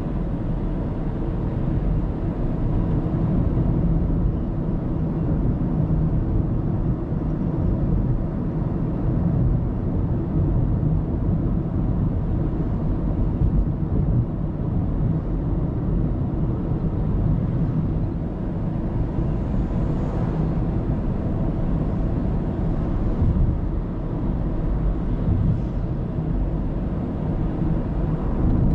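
A car driving at road speed, its tyres and engine giving a steady low rumble as picked up by a dashcam inside the car, with a few faint swishes about two thirds of the way through.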